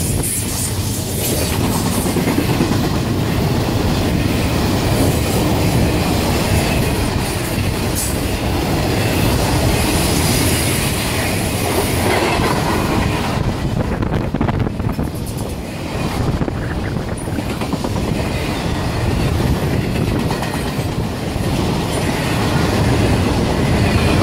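Intermodal freight cars rolling past at speed: a steady loud rumble with the wheels clattering over the rail joints.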